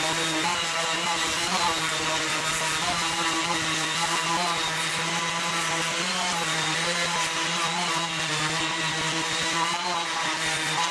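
5-inch orbital sander with an 80-grit Diablo disc sanding a rough reclaimed-wood board, running steadily: an even motor whine over a constant hiss of abrasive on wood.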